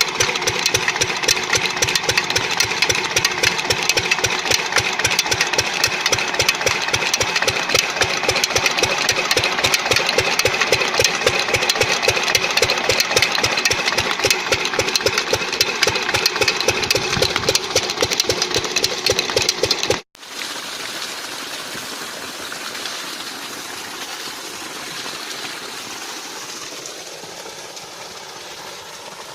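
Old Lister-type stationary diesel engine running steadily with an even, rapid knocking beat. About two-thirds of the way through, the engine sound cuts off abruptly and gives way to a quieter, steady rushing noise.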